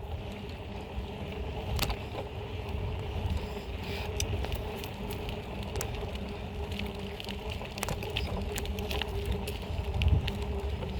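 BMX bike being ridden: a continuous low rumble of wind and tyres on the microphone, with scattered clicks and rattles from the bike throughout.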